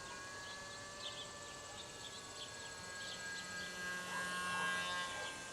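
Small electric motor and propeller of a Cox Sky Ranger RC trainer plane buzzing in flight. It is a thin steady whine that wavers slightly in pitch and grows a little louder about four seconds in.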